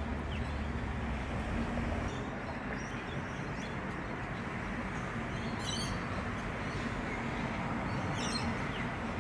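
Birds chirping a few times over a steady rushing outdoor background noise as a thunderstorm approaches.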